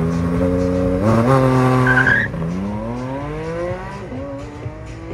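Car engine accelerating hard, its pitch climbing and dropping back at gear changes about two and four seconds in, with a short tyre squeal just before the first change. It is loudest in the first two seconds and fades after the first shift.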